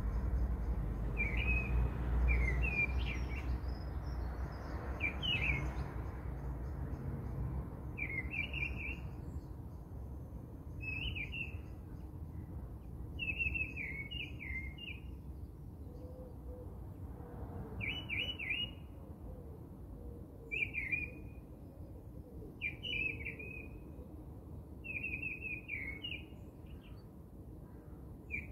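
A small bird chirping in short, quick phrases that repeat about every two to three seconds, over a low background rumble that fades after the first few seconds.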